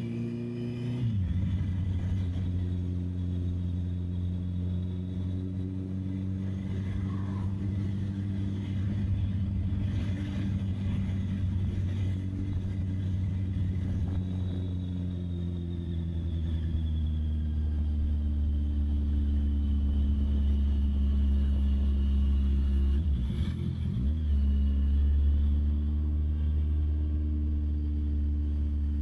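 Honda CB650R's inline-four engine running at steady cruising revs, heard from the rider's camera with wind noise on the microphone. The pitch drops about a second in and again briefly past three-quarters through, like gear changes.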